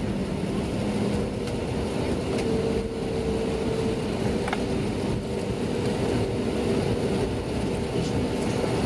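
Steady cabin noise inside an Airbus A320neo: a continuous rush of airflow and engine sound with a low, even hum.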